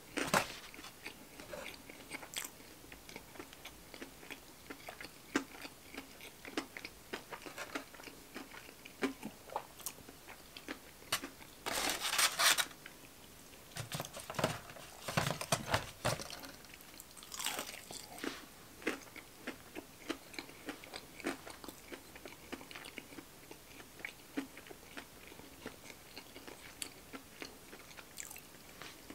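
Close-up chewing and crunching of fried breaded chicken fingers: many small mouth clicks and bites, with a louder rustling burst about twelve seconds in.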